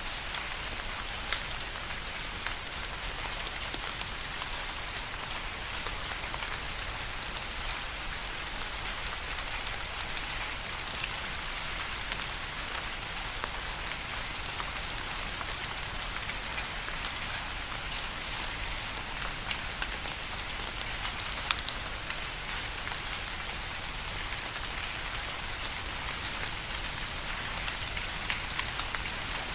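Steady rain falling: an even hiss of rain with many individual drops ticking sharply through it.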